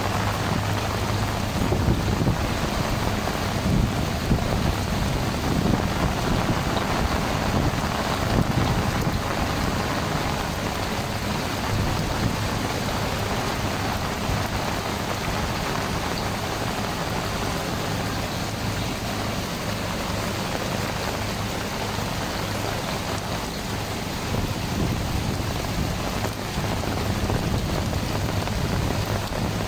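Heavy rain pouring down steadily in a storm, with a low rumble underneath.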